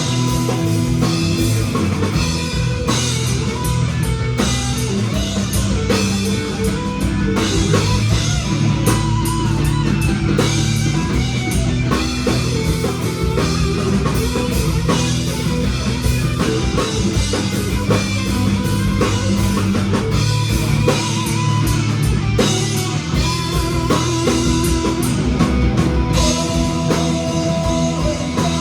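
Live rock band playing a song at full volume: electric guitars over a steady drum-kit beat.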